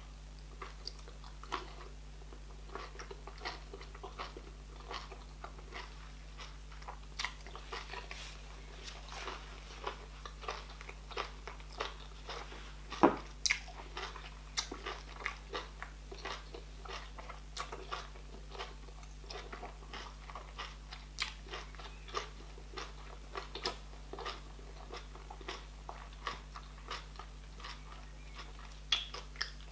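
Close-up chewing of a mouthful of meat from okra soup: many short, wet clicks and smacks, with one louder crunch about thirteen seconds in.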